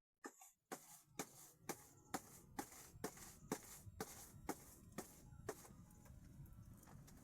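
A run of sharp, regular knocks, about two a second, that stops a little after five seconds in.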